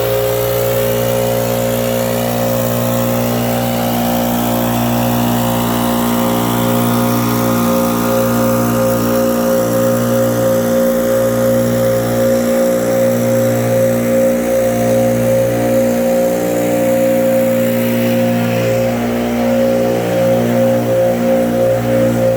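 A small gasoline engine on lawn equipment running steadily at high throttle, its pitch holding nearly constant with slight wavering.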